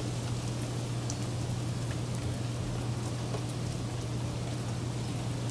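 Steady rain falling during a thunderstorm, with scattered individual drops ticking sharply on surfaces. A steady low hum runs underneath.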